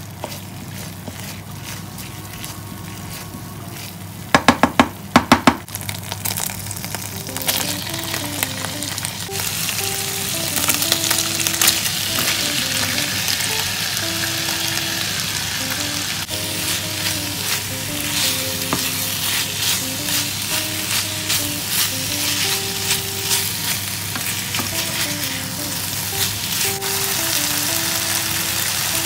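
Food sizzling in a nonstick frying pan while it is stirred with a wooden spatula: tube seasoning paste in sesame oil at first, then pork and sliced onions. The sizzle grows louder after about eight seconds. A quick run of sharp knocks comes about four seconds in.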